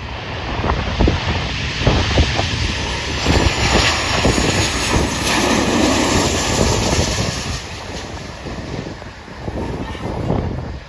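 Southwest Boeing 737-700 jet engines (CFM56) passing, a rushing roar that swells to a peak midway and then fades. Wind buffets the microphone throughout.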